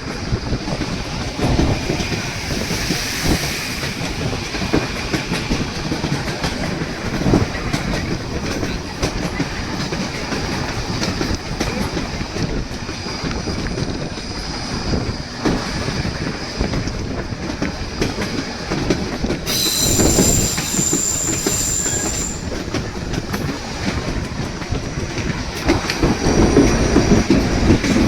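White Pass & Yukon Route narrow-gauge train running, its wheels clattering over the rail joints. A high wheel squeal lasts about three seconds past the middle, and the running noise gets louder near the end.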